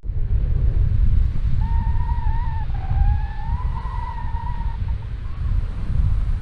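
Wind rushing over the microphone in flight, a steady low buffeting. From about one and a half seconds in to nearly five seconds in, a faint, wavering, whistle-like tone sounds over it.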